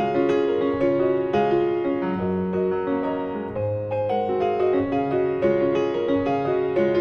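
Background piano music: a steady flowing pattern of notes over a recurring bass note.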